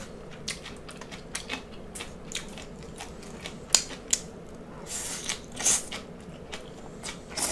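Close-miked eating: chewing with many short wet mouth clicks, and about five seconds in a short slurp as a strand of garlic-sautéed ong choy (water spinach) is drawn into the mouth.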